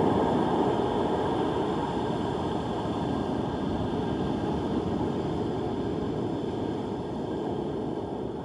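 Steady rushing noise of wind and surf on a storm-churned beach, slowly getting quieter.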